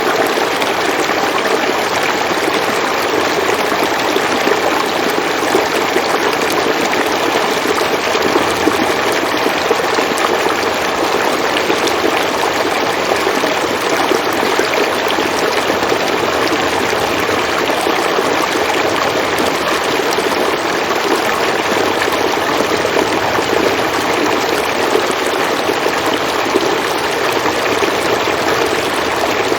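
River water flowing steadily over rocks, an even rushing and babbling that doesn't change.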